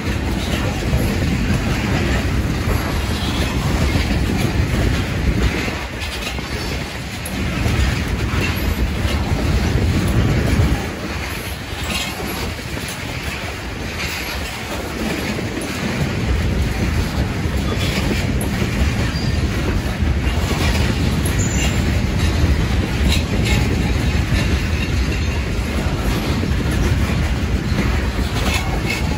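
Freight cars of a rock train rolling past close by: a steady, loud rumble of steel wheels on rail with clickety-clack. It swells and dips as cars go by, with a few faint, brief high wheel squeals.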